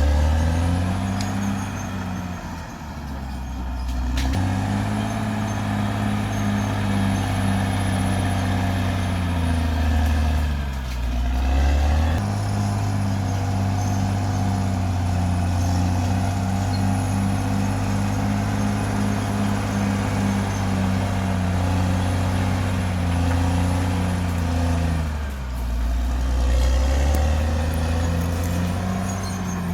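Caterpillar D6R XL bulldozer's diesel engine running under load, with a steady faint high whine. The engine note dips and recovers three times as it is pulled down.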